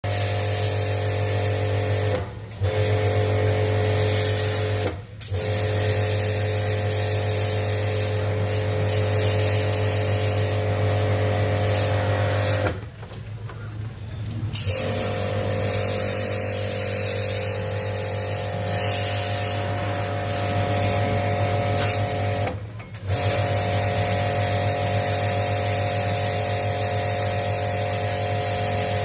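A mains-powered electric motor, such as service equipment or the unit's own drive, hums steadily with a strong low drone. It cuts out briefly four times: twice in the first few seconds, for a longer gap in the middle, and once more later.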